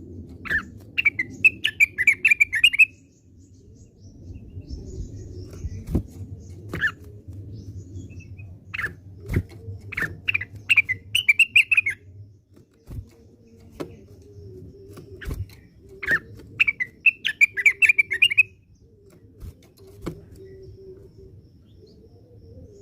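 Blue-winged leafbird (cucak wilis) singing: three bursts of rapid chattering, warbling notes, with single sharp call notes between them, over a low steady background hum.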